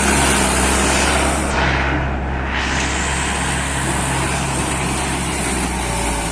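International tractor's diesel engine running steadily under load, with a strong low hum. The hiss above it briefly dulls about two seconds in.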